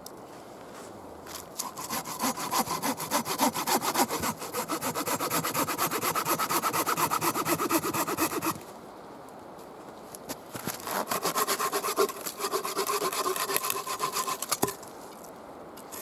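Hand saw cutting through wood in fast back-and-forth strokes, in two bouts with a short pause between, the blade ringing faintly through the cut.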